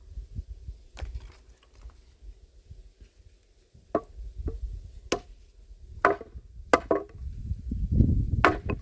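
Handmade axe chopping wood: about seven sharp strikes at uneven intervals, the strongest in the second half.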